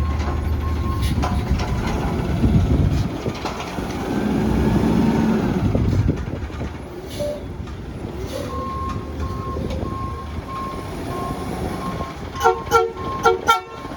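Front-loader garbage truck's diesel engine running, getting louder for a couple of seconds about four seconds in, then its reversing alarm beeping steadily. Near the end four short, loud beeps cut through.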